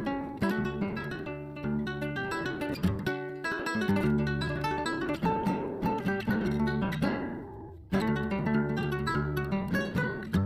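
Background music of an acoustic guitar, plucked and strummed. It dips briefly about seven seconds in, then comes back at full level.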